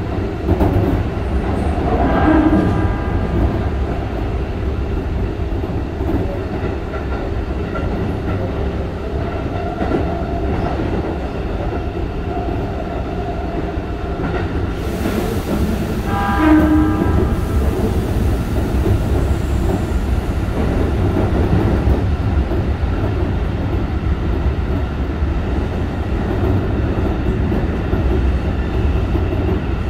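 Keikyu 1500-series electric train car (Toyo IGBT-VVVF) running, heard inside the car: a steady low rumble of wheels on rail, with two brief tonal notes about 2 s and 16 s in.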